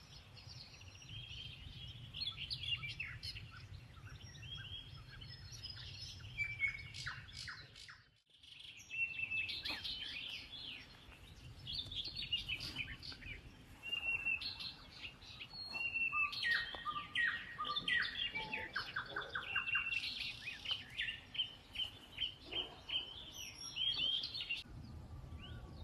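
Several songbirds singing and chirping together, with quick repeated trills and short calls, over a low steady rumble. The sound cuts out briefly about a third of the way in.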